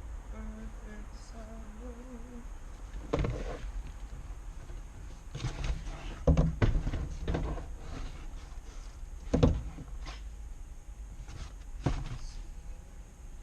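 Scattered clunks and knocks, about five or six spread over several seconds, as a bicycle is taken out of a car and assembled.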